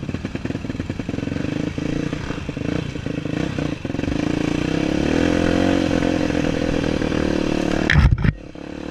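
Off-road trail motorcycle engine running, its pitch rising and falling with the throttle. Many sharp clattering knocks over the first four seconds, then a steadier note. A loud short blast comes about eight seconds in, and after it the engine is quieter.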